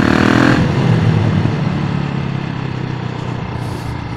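KTM Duke 690's single-cylinder engine, breathing through a Hurric Pro 2 exhaust with the dB killers fitted, swells briefly in the first half second, then settles to a lower note that slowly fades as the bike slows off the throttle. Wind rushes over the helmet microphone throughout.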